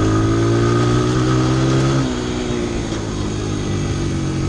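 Honda CRF100 dirt bike's single-cylinder four-stroke engine running steadily under way, then easing off about two seconds in, its pitch and loudness dropping slightly.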